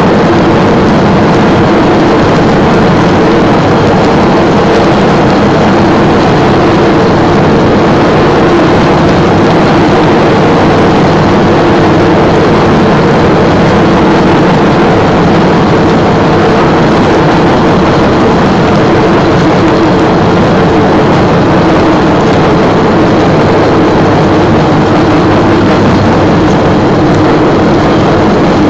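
A train running steadily, heard from on board: a loud, even rumble with a steady low drone that does not change.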